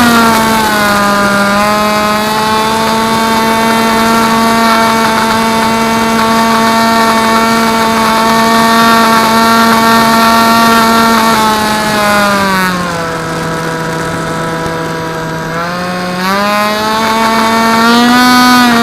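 FPV quadcopter's electric motors and propellers whining steadily. The pitch drops a little after the middle as the throttle eases, then climbs back near the end.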